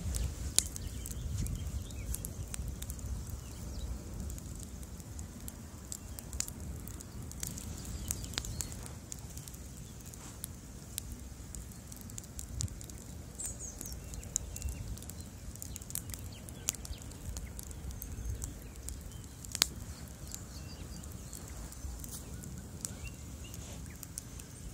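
Bonfire burning: a low steady rumble of flames with irregular crackles and snaps, and one louder pop late on.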